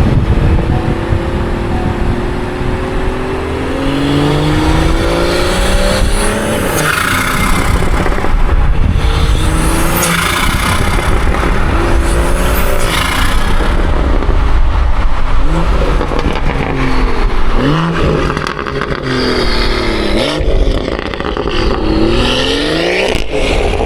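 BMW 340i's turbocharged inline-six, with a catless downpipe and valved exhaust, pulling hard: the exhaust note climbs in pitch several times as it revs up through the gears, with short breaks and sharp cracks between the pulls.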